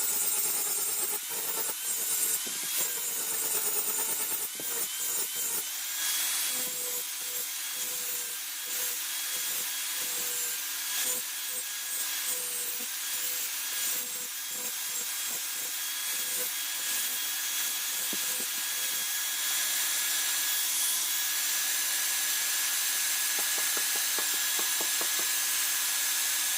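A powered grinder grinding a steel khukuri blade: a steady motor whine under a bright, gritty hiss, the pitch dipping slightly as the metal is pressed on.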